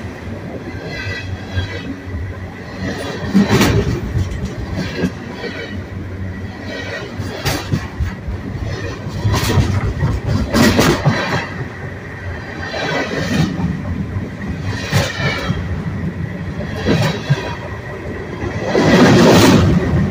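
Freight cars of a BNSF freight train rolling directly overhead, heard from between the rails: a steady loud rumble of steel wheels on rail, swelling into a burst of clacking and screeching every couple of seconds as each set of wheels passes over.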